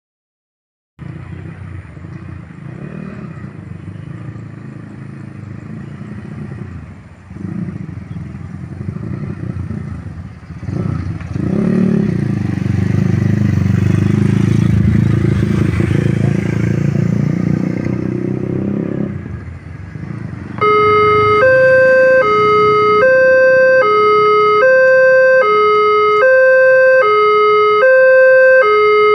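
Road traffic passing the level crossing, mostly motorcycles, growing louder in the middle as vehicles go by close. About two-thirds of the way in, the crossing's electronic warning alarm starts: a loud two-tone signal alternating high and low, about one change every three-quarters of a second, warning that a train is coming and the barrier is closing.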